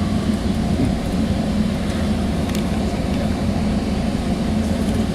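Steady low rumble inside a Sound Transit Sounder commuter rail passenger car, with a few faint ticks on top.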